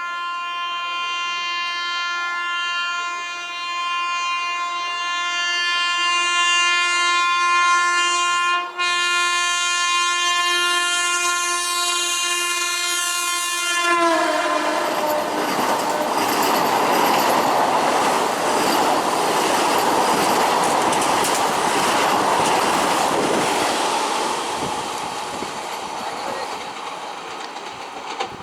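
Indian Railways train sounding one long, steady horn blast for about fourteen seconds as it approaches, the pitch dipping slightly as the horn stops. The train then passes at speed with a loud rush and clickety-clack of wheels over rail joints, fading near the end.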